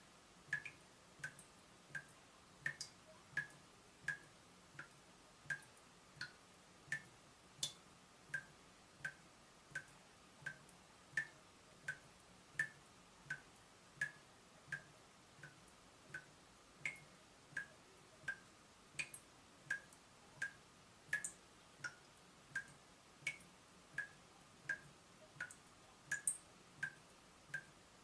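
Water dripping from a leaking tap: a steady run of single drops, about one every 0.7 seconds, each a short plink.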